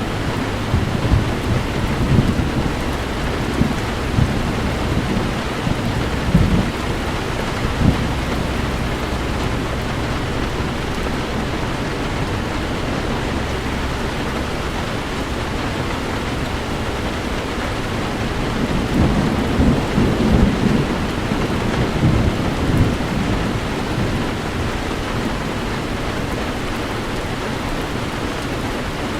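Heavy rain falling steadily on a driving car, with low rumbles of thunder swelling through the first several seconds and again a little past the middle.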